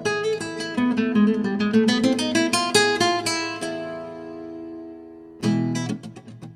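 Background music on acoustic guitar: a quick run of single plucked notes, one note left ringing and fading, then a strummed chord near the end.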